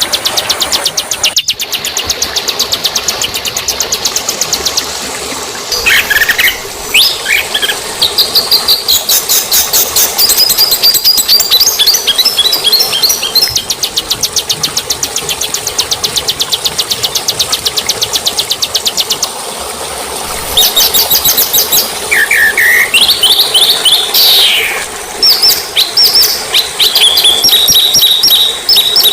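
Songbirds singing rapid, high-pitched trills and chirps broken by short whistled sweeps, with brief lulls. It is a recording of small songbirds' song of the kind played to tutor caged birds.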